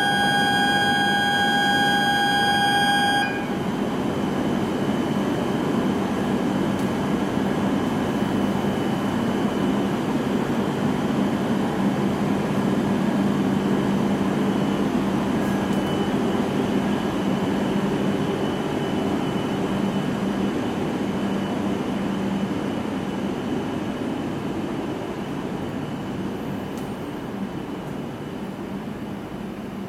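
A steady electronic beep tone stops abruptly about three seconds in. After it comes an E7/W7-series Shinkansen train pulling out: a steady rumble of wheels on rail with a low hum, fading over the last several seconds as it draws away.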